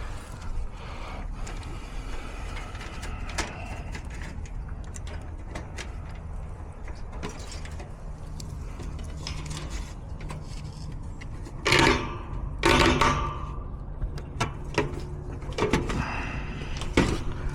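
Metal tools and parts being handled: scattered clicks and light clatter, with two louder rattling clanks about twelve and thirteen seconds in, over a steady low rumble.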